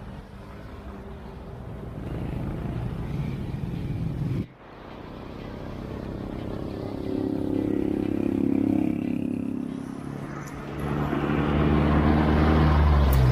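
Road traffic: motor vehicle engines passing close by, swelling and fading, with the loudest one near the end. The sound drops off abruptly about four and a half seconds in, then builds again.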